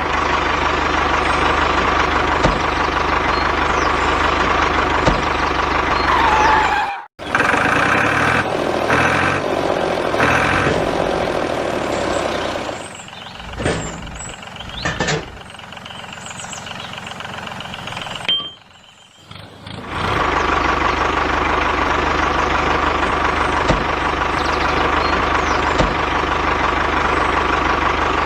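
Engine of a homemade mini tractor running steadily. It cuts out briefly about seven seconds in, runs quieter from about twelve to twenty seconds, then comes back at full level.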